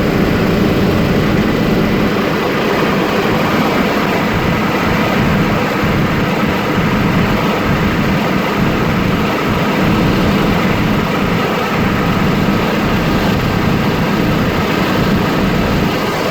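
Helicopter engine and rotor running steadily: a loud, even drone with a strong low hum.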